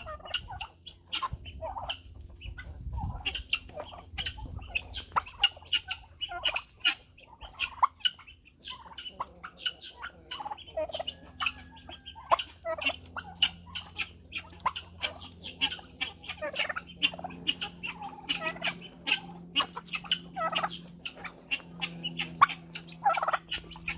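Domestic turkeys calling, many short clucks and calls in quick succession. A faint steady hum joins about halfway through.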